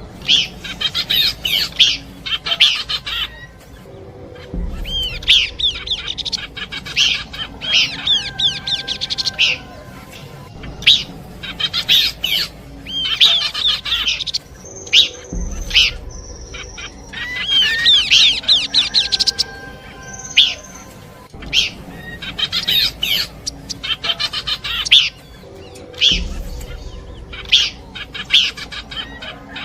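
Recorded song of the pelanduk semak (Horsfield's babbler), mixed into a bird-lure combination: quick chirps and rapid trills with a few held whistled notes. The same sequence repeats about every eleven seconds as a loop.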